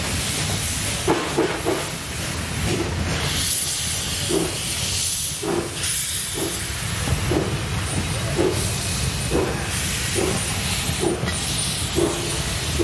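Two-foot gauge wooden passenger coaches rolling slowly past, their wheels clicking over rail joints about once a second, under a steady hiss of steam.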